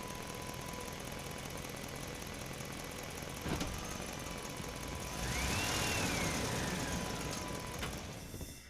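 Remote-control toy excavator's electric motors running steadily, with a click about three and a half seconds in. Just past halfway the motor noise gets louder and a whine rises and falls, then the sound fades out at the end.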